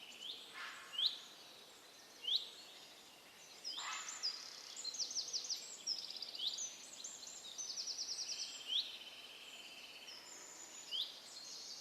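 Small birds chirping: a string of short, sharp chirps about once a second, with two quick trills, one about five seconds in and a longer one of about ten notes a second near the eight-second mark.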